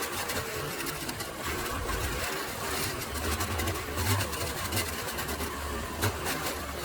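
A small engine running, with uneven surges in its low hum and a few sharp clicks over a rough noisy hiss.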